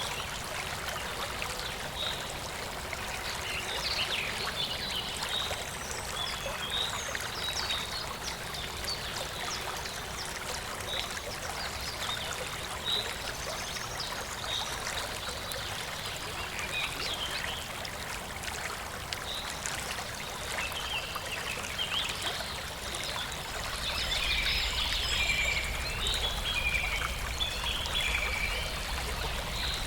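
Running water from a stream with small birds chirping over it. In the last few seconds the chirping grows busier and the water a little louder.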